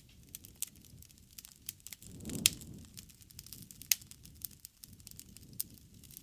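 Wood fire crackling, with scattered sharp pops over a soft low rumble of flame. The rumble swells briefly about two seconds in, topped by the loudest pop.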